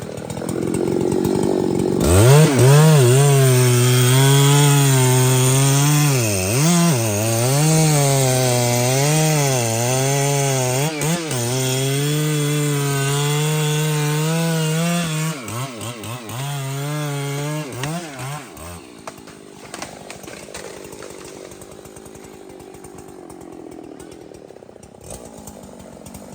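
Large professional chainsaw revved up about two seconds in and run at full speed cutting through thick wood, its pitch dipping and recovering as the chain is loaded. Around fifteen seconds in the throttle is eased off and blipped a few times, and the high engine note stops a few seconds later, leaving a lower steady noise.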